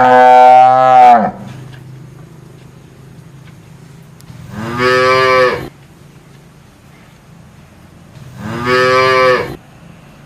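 A cow mooing three times. One long moo ends about a second in, then two shorter moos follow about four seconds apart.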